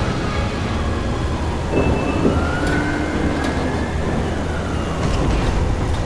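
A wailing tone that rises for a few seconds and then falls away, over a steady low rumble.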